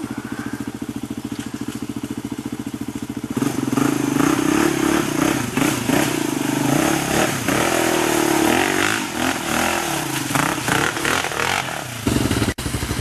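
Dirt-bike engine ticking over with a steady pulse. About three seconds in it is revved up hard, and its pitch rises and falls as the bike is ridden through mud, with some clatter. Near the end it settles back to a steady beat.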